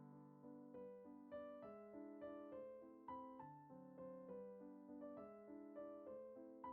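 Quiet background piano music: a gentle melody of notes struck about three times a second over a low accompaniment.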